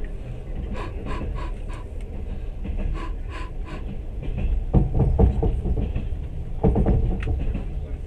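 Train running along the track, heard from inside the carriage: a steady low rumble with runs of light ticks in the first half, and two louder rough bursts about five and seven seconds in.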